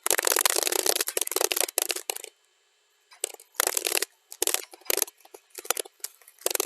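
Computer keyboard typing, sped up to double speed, so the keystrokes run together in fast clattering runs. A steady run stops for a short pause about two and a half seconds in, and the typing then comes back in shorter, choppier bursts.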